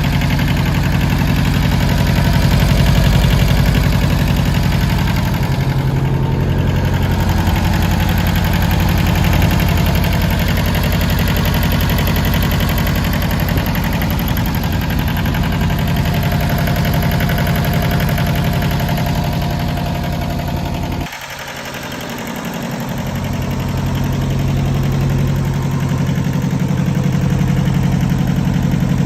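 John Deere 650 tractor's three-cylinder Yanmar diesel engine running steadily at idle. About two-thirds of the way through, its low sound drops away suddenly and builds back over a couple of seconds.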